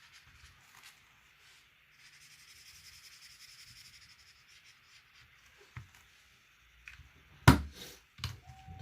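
Colouring on paper: a drawing tool rubbing in soft, steady scratchy strokes, then a few small ticks and one sharp knock near the end.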